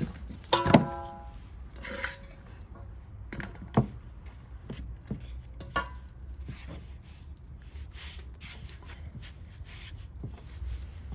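Cooking utensils knocking and clinking: scattered knocks and clicks, with a ringing metal clink just under a second in and fainter rings at about two and six seconds.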